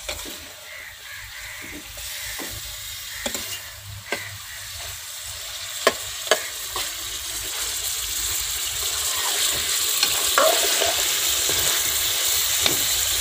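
Chicken and potato pieces sizzling as they are fried (bhuna) in a metal karahi over a wood fire, with a metal spoon stirring and clinking against the pan. The sizzle grows louder from about the middle on, while the sharp clinks of the spoon come mostly in the first half.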